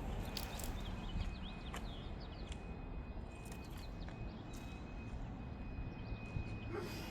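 Birds chirping, with a steady high tone and a few scattered sharp clicks.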